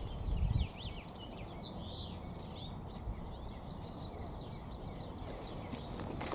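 Small birds calling: short high chirps repeat about twice a second, mixed with other scattered calls, over a steady low rumble. A brief low thump comes about half a second in.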